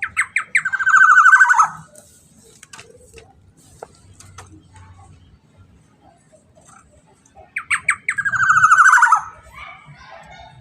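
Black-naped oriole (kepodang emas) giving its harsh call twice, about seven seconds apart: each call is a few short clipped notes, then a rasping, buzzy note lasting about a second.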